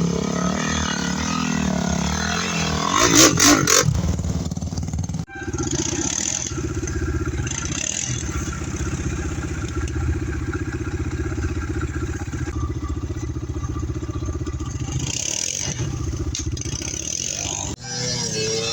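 Enduro motorcycle engine running off-road, with a loud burst of revving about three seconds in; the sound breaks off abruptly twice and resumes as a steady pulsing engine note.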